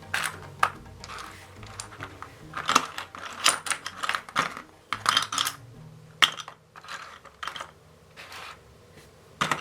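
Plastic LEGO pieces clicking and rattling by hand during building: irregular sharp clicks and short bursts of rummaging through loose parts.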